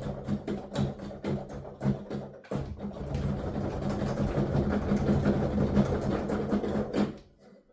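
Keys of a digital piano played with headphones on, so only the mechanical clatter and thumping of the key action is heard, with no piano tone. Separate key strikes at first, then fast continuous playing that stops abruptly near the end.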